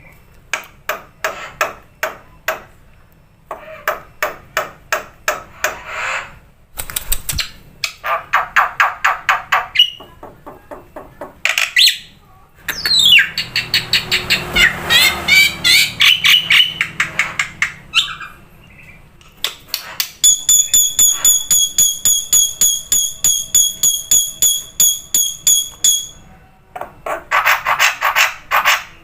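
Black-winged myna (jalak putih) singing: long runs of rapid chattering notes broken by short pauses, a burst of rising and falling whistles in the middle, and a rapidly pulsed high whistle held for several seconds later on.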